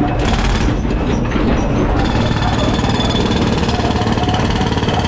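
Heavy demolition machinery working on concrete: a loud, steady, dense clatter with a faint high whine above it.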